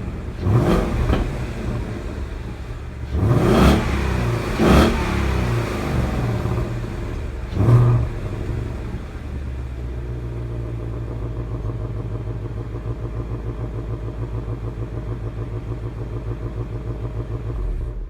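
Ford Mustang 5.0 V8 on its factory exhaust, revved in four short blips over the first eight seconds, then settling into a steady idle with an even pulse.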